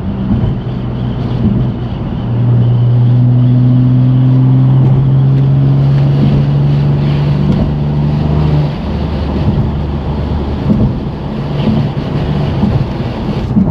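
BMW F80 M3 Competition's twin-turbo S55 straight-six with a straight-piped exhaust, droning at a steady cruising pitch over road and wind noise. It gets louder about two seconds in, holds one even pitch, and eases off at about nine seconds.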